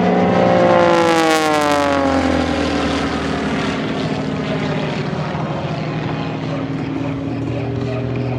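Pitts aerobatic biplane's piston engine and propeller passing close by: a drone that is loudest about a second in and drops in pitch as the plane goes past, then settles into a steadier, lower drone as it moves away.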